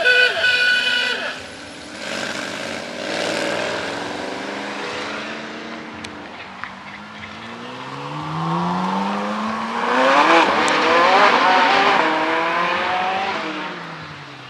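Car engines accelerating hard, revs climbing in pitch. The loudest run starts rising about eight seconds in, peaks a couple of seconds later and fades away. A brief steady high-pitched tone ends about a second in.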